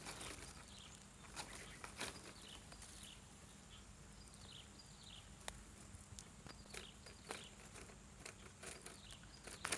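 A bird's short, falling chirps, repeated about once or twice a second, with scattered sharp clicks and rustles.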